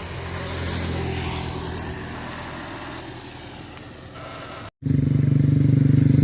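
Motorcycle engine running steadily. It is loud and pulsing after a sudden cut near the end, and before that it is a lower hum under a steady hiss.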